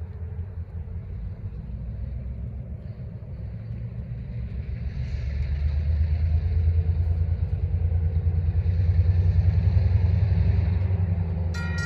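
Diesel switcher locomotives (EMD SW1500s) rumbling as they approach, the low engine sound growing louder about halfway through. Right at the end a locomotive horn starts to sound.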